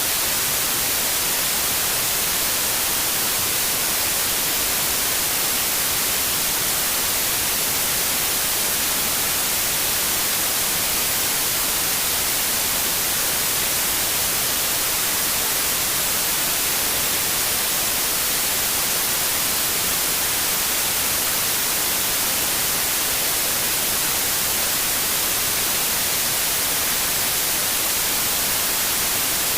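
Steady synthetic white noise: an even, unbroken hiss weighted toward the high end, with no change in level or pitch.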